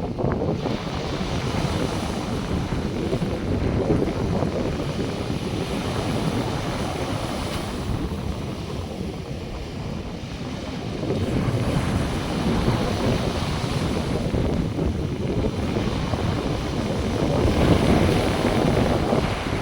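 North Sea surf washing on the beach, mixed with wind buffeting the microphone in a low rumble. It swells and eases in waves and is loudest near the end.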